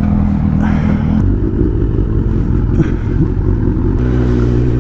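Superbike engines running at low, steady revs, with the engine note shifting about a second in and again near four seconds in.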